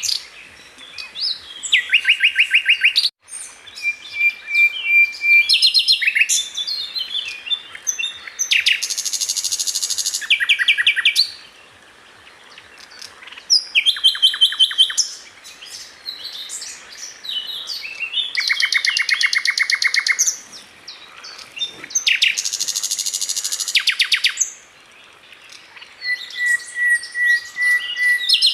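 A sikatan londo flycatcher singing: loud phrases of very fast rattling trills and chattering notes, with short pauses between them. Twice it holds a steady whistle, once early on and once near the end.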